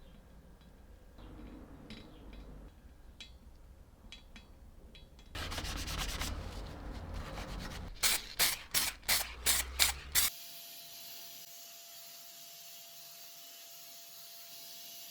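Rubbing and scraping on the machine's parts by hand, faint with small ticks at first, then much louder about five seconds in, ending in seven quick, sharp scraping strokes. It cuts off abruptly to a steady hiss with a faint hum.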